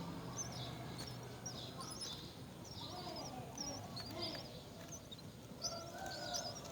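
Birds chirping: a quick, irregular run of short, high, wavering chirps, joined near the end by a lower, steadier call.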